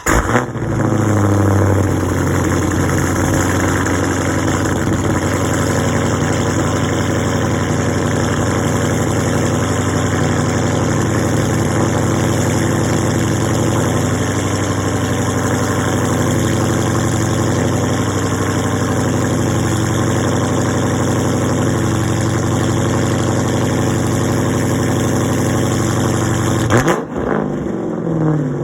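Cold start of a 2015 Dodge Challenger SRT 392's 6.4-litre HEMI V8, heard through a mid-muffler delete and a catless Stainless Works mid-pipe: the engine catches with a brief rev flare, then settles into a loud, steady idle. About 27 seconds in the sound drops off sharply.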